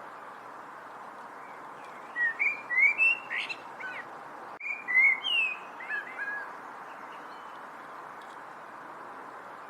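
A songbird sings two short phrases of quick, gliding chirps, the first about two seconds in and the second about five seconds in, over a steady background hiss.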